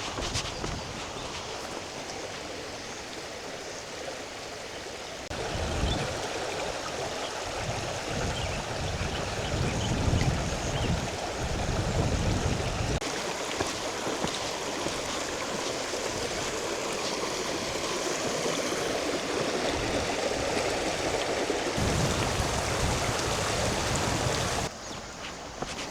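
Steady rush of flowing water, louder from about five seconds in, cutting off abruptly near the end.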